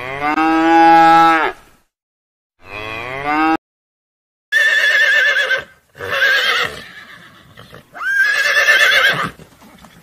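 Cattle mooing: one long low moo, then a shorter one that cuts off abruptly. From about halfway in, horses whinny three times in high, quavering neighs.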